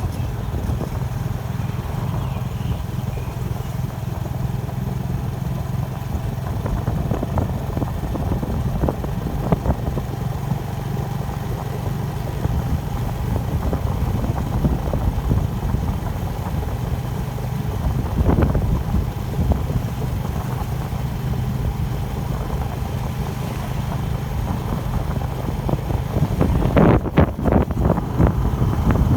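Steady low rumble of a moving bike ride, with a constant hum, wind on the microphone and scattered rattles and knocks. A louder burst of rattling comes near the end.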